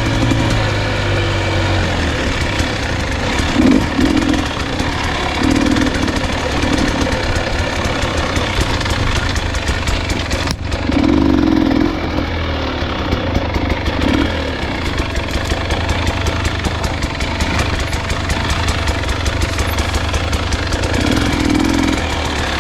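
Dirt bike engine running at low revs on a slow trail ride, with short bursts of throttle every few seconds.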